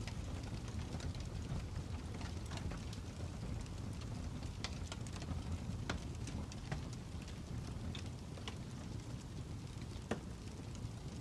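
Fire crackling: a steady low rumble of flames with irregular sharp pops and snaps, one louder pop about ten seconds in.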